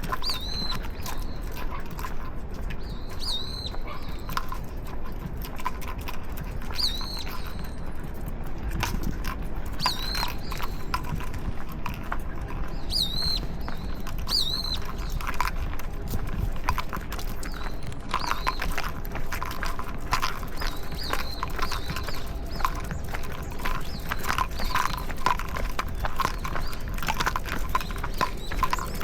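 Footsteps and dogs' claws clicking on pavement during a walk, growing denser in the second half, with a few short high chirps in the first half.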